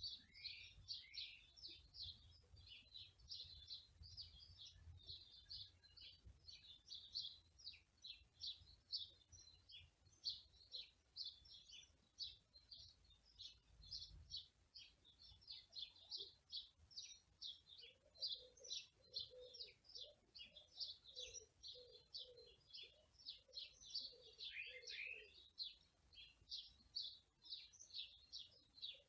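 Small birds chirping in a dense, continuous high-pitched chorus of quick notes. Past the middle, a lower call repeats about twice a second for several seconds. Faint wind rumble in the first half.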